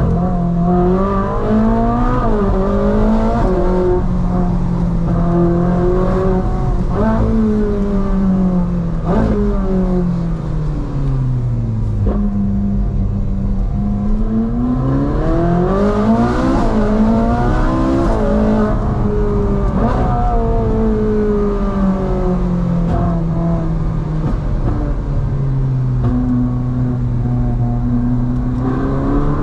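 Ferrari 458 Spider's 4.5-litre naturally aspirated V8 under way. The engine note climbs and falls again and again as the car accelerates, shifts and lifts off, with a few quick drops in pitch like gear changes in the first ten seconds and steadier cruising stretches in between. There is a long rise and fall near the middle, and a fresh climb near the end.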